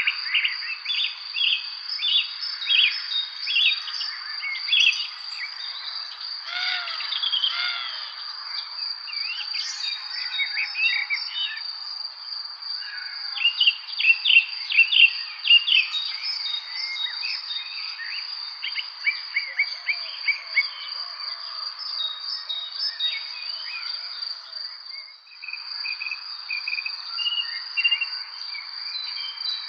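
Evening spring chorus of several small birds chirping and singing in quick varied phrases, over a steady high-pitched insect trill that breaks off briefly near the end.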